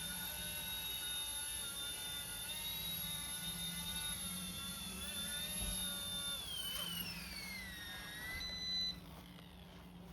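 RC ERA C128 micro RC helicopter's motor and rotor running with a steady high whine. About six and a half seconds in the whine falls in pitch as the rotor spools down, and it cuts off sharply near the end.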